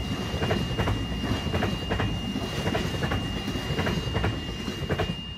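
Freight train of empty container flat wagons rolling past, its wheels clacking over the rail joints about twice a second under a steady rumble, with a thin high whine held throughout.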